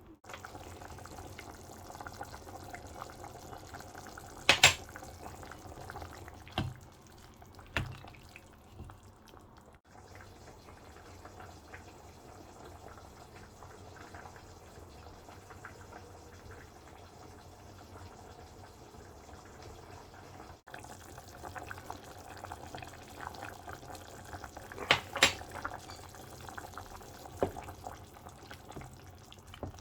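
Pot of chicken and pea soup simmering, a steady low bubbling, with a few sharp clinks scattered through it: several in the first eight seconds, then a cluster near the end.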